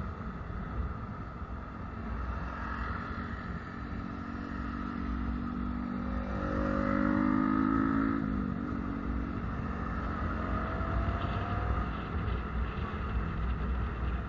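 Motor vehicle engine and road rumble. A louder engine passes about six to eight seconds in, its note dropping as it goes by.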